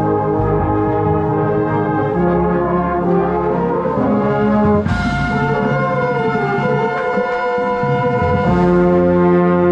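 A marching band's brass section playing loud sustained chords that shift every few seconds, with a bright accented hit about five seconds in.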